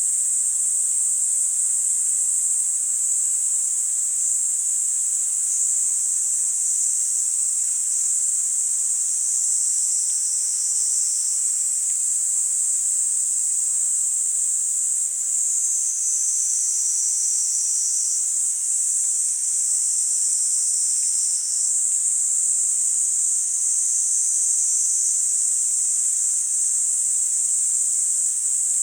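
Niiniizemi cicadas (Platypleura kaempferi) singing in a steady, high-pitched, continuous chorus, with the overlapping voices shifting in pitch as individuals start and stop every few seconds.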